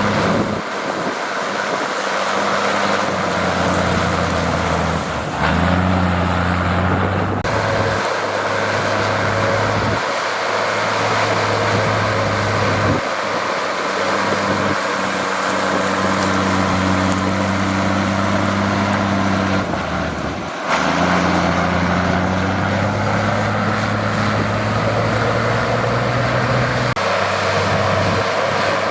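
Heavy diesel engine of earthmoving machinery running under load, its pitch shifting up and down in steps as the engine works, with brief breaks a few times.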